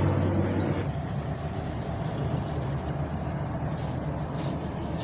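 Motorcycle running, with a steady low engine hum that drops away about a second in, leaving a rushing noise of wind and road.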